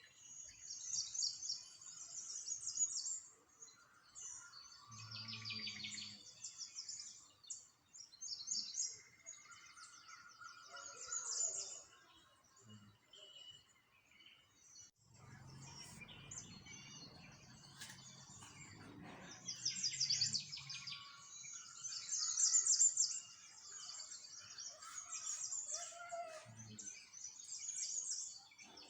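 Small songbirds chirping and singing, many overlapping high calls and quick trills. A low rumble rises under them for a few seconds about halfway through.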